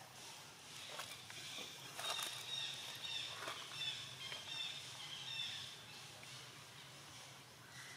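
A bird chirping: a quick run of short, high, repeated chirps from about two seconds in until past the middle, with a few faint clicks before them.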